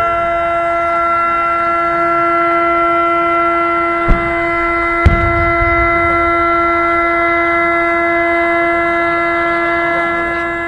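A single long held tone, steady in pitch with strong overtones, fading toward the end. Two sharp bangs, about a second apart, fit firework shells bursting about four and five seconds in.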